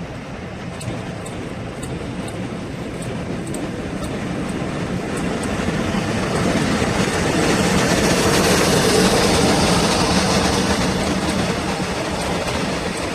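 Train approaching and passing, its rumble growing louder to a peak about two-thirds of the way through, then easing slightly.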